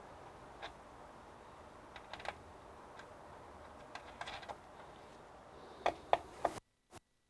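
Scattered light clicks and taps of small hardware being handled during a CPU cooler mounting, with three sharper clicks about six seconds in; the sound then cuts out abruptly just before the end.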